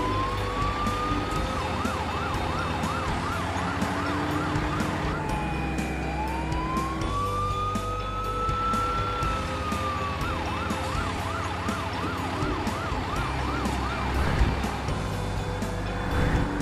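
Fire truck siren alternating between a slow wail and a fast yelp: a rising wail opens, then a rapid yelp, then a second long wail rising and falling back, then the yelp again until about three-quarters of the way through. A steady low hum runs underneath.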